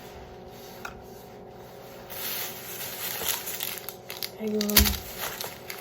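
Plastic takeout bag and wrappers rustling and crinkling as food is unpacked, with a short hum from a voice and one sharp knock near the end.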